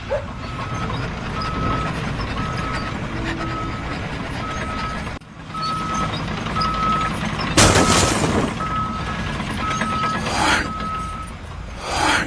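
Construction vehicle's reversing alarm beeping steadily, one single-pitched beep roughly every half second, over low engine rumble. A loud burst of hiss comes about eight seconds in.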